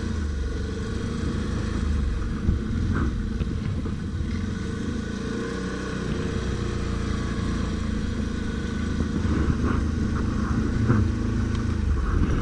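Stels Guepard 850 ATV engine running steadily while riding off-road, with a few short knocks and clatters along the way.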